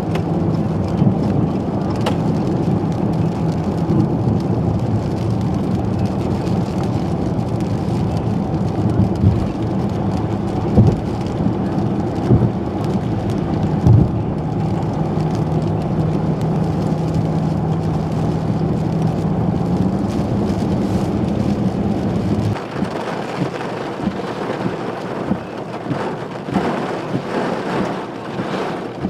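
Heavy rain beating on a car driving at highway speed, heard from inside the cabin over a steady engine and road drone that rises slightly in pitch about two-thirds of the way in. The drone then cuts off suddenly, leaving only rain and wind noise.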